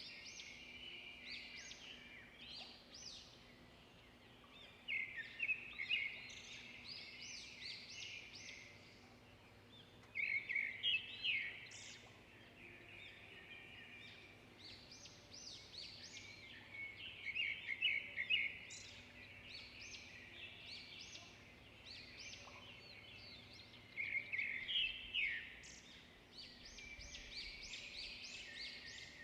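Songbirds chirping and singing, a busy mix of short high chirps and trills, with louder bursts of rapid chirping every several seconds.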